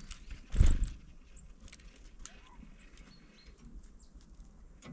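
Light knocks and taps at a window bird feeder, the loudest a single thump about half a second in, followed by scattered small clicks.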